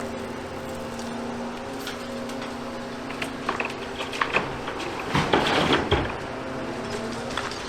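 Volvo excavator's diesel engine running steadily, with rubble clattering and crashing as demolition debris is handled, starting about three seconds in and heaviest around five to six seconds.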